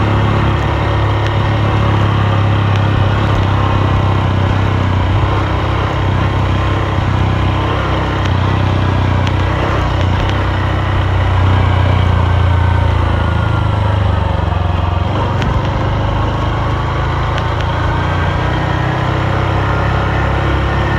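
Honda Super Cub's single-cylinder four-stroke engine running steadily while the bike is ridden, a low even hum.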